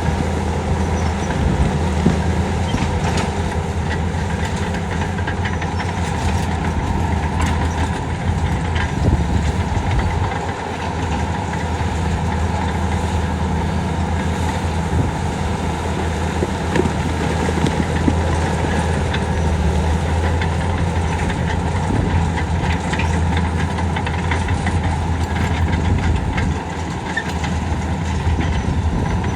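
Heavy diesel earthmoving machinery running steadily under load, with scattered clicks and knocks over the engine.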